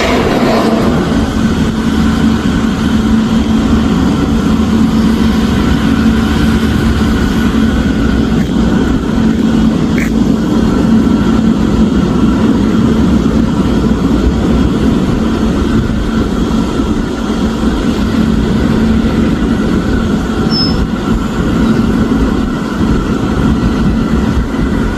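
Steady engine drone with a constant low hum over a noisy rumble, and a single brief click about ten seconds in.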